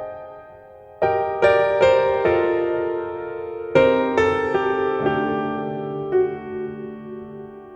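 Background piano music: slow chords struck about a second in and again near four seconds, each left to ring and fade.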